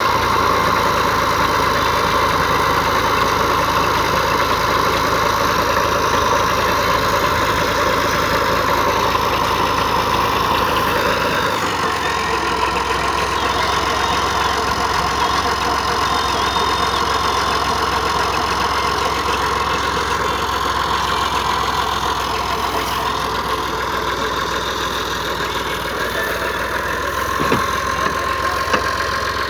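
Massey Ferguson 240 tractor engine running steadily at idle; its note changes about a dozen seconds in and it runs slightly quieter after.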